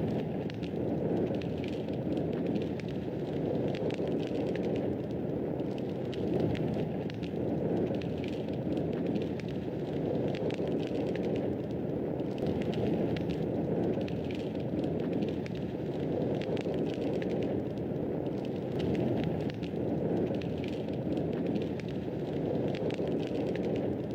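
Fireplace fire burning and crackling: a steady low rushing of the flames with frequent small, sharp crackles scattered throughout.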